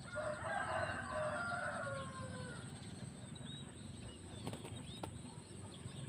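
A bird's loud chattering call in the first two and a half seconds, falling slightly in pitch, then fainter scattered bird notes and two short clicks.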